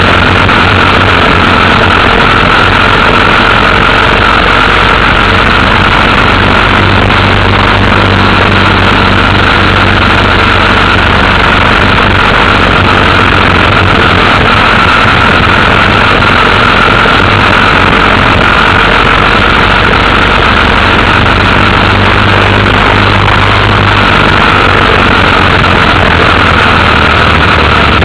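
Motorcycle engine running at a steady speed, loud and constant with no change in pitch.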